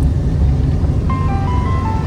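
Renault car's exhaust giving a loud, steady low rumble. A tune of short, clear notes starts over it about a second in.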